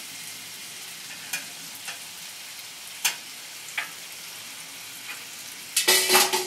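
Chicken wings, mango, pear and peppers sizzling steadily on a hot griddle, with a spatula clicking against the griddle a few times as the food is moved around. Near the end comes a louder, ringing scrape across the griddle.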